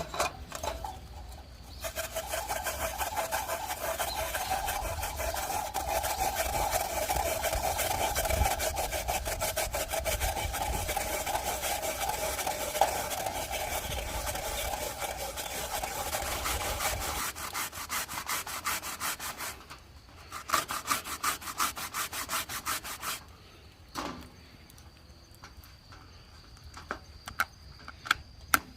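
Rapid back-and-forth rasping strokes, steady for about fifteen seconds, then a shorter run of strokes after a brief pause.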